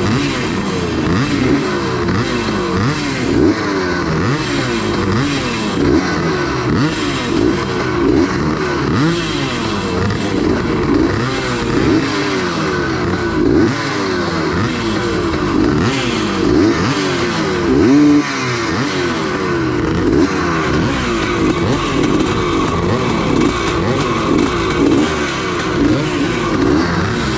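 Several vintage 250 cc motocross bikes idling and being revved on the start line while waiting for the gate to drop. Their engine notes rise and fall over and over and overlap one another.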